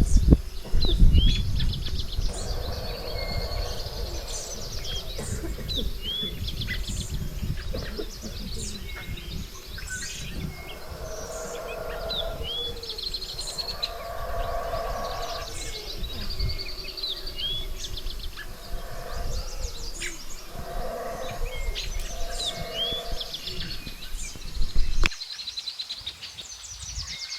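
Several birds calling over each other: repeated short, high chirps and trills, with lower calls recurring every second or two. A low rumble of wind on the microphone runs underneath and cuts out near the end.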